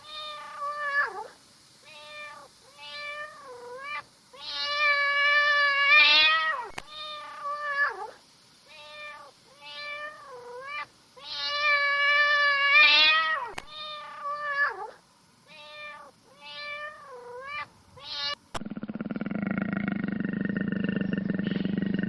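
Domestic cat meowing over and over: many short, bending meows with two long, drawn-out ones. About three seconds before the end it cuts to a deep, drawn-out roar from a large animal.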